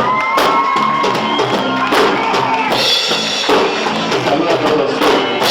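Live band playing an instrumental passage: a drum-kit beat under bass and held melodic notes, with no vocals yet.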